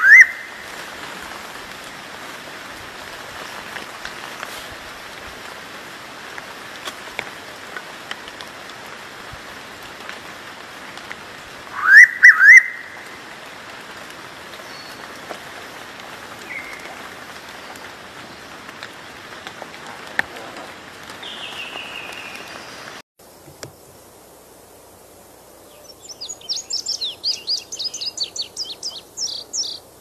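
A bird's loud double whistle, two quick rising notes, heard at the start and again about twelve seconds in, over a steady background hiss. About two-thirds of the way through the hiss cuts out, and near the end a small songbird's rapid run of high chirps begins.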